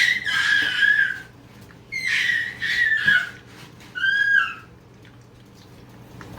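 A baby squealing three times in a baby jumper, high-pitched and drawn out, the third squeal shorter than the first two.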